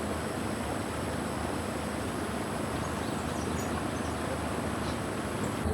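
Steady high insect trilling over a low, steady rumble, with no other distinct events.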